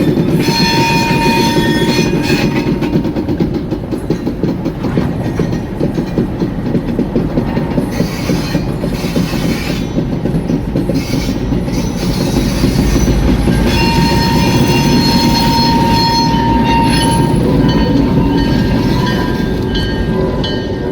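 A diesel locomotive switching freight cars: its engine runs steadily under the rumble and clatter of cars rolling slowly over the rails. A long, high-pitched squeal is heard twice, about a second in and again about two-thirds of the way through, typical of wheels squealing.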